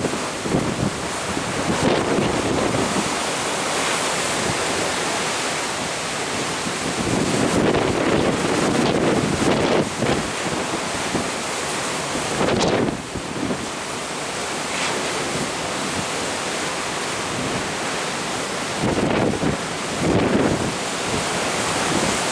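Wind buffeting the microphone in gusts every few seconds, over a steady rush of sea water from a moving ship.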